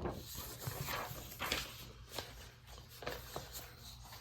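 Several soft rustles and a few light taps of handling noise.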